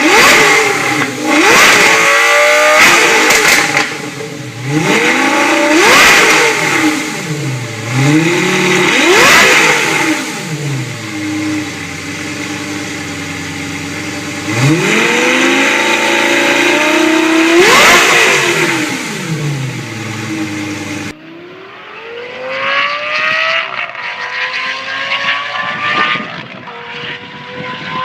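Lamborghini Gallardo V10 with a catalytic-converter-delete exhaust, revved several times from idle, each rev climbing and falling back, with a steady idle between. Near the end it accelerates, its pitch climbing and breaking off several times.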